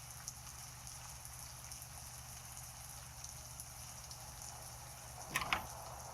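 Steady heavy rain, with small drops ticking against a surface. About five and a half seconds in come two quick sharp clicks, louder than the rain.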